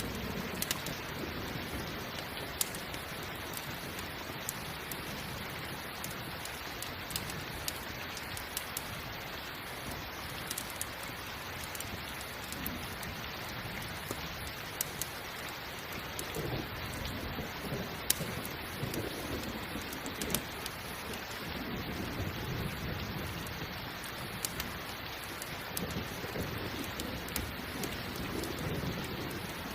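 Steady heavy rain, with low rolling thunder rumbles through the second half, and scattered sharp crackles and pops from a campfire.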